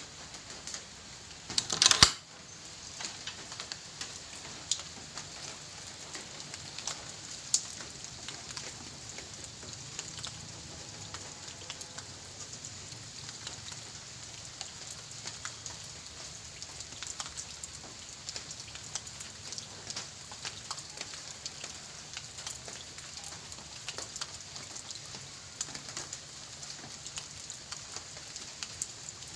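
Steady rain falling on a surface, heard as a constant hiss dotted with many small drop impacts. Just before two seconds in, a single sudden loud burst stands out above the rain.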